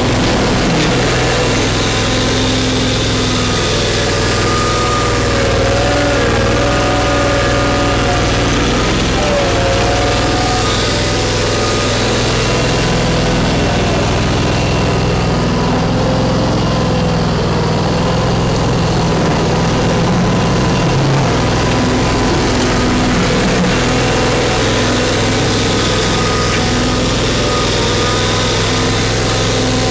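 John Deere X585 garden tractor's engine running steadily while plowing wet snow, its pitch wavering slightly a few times.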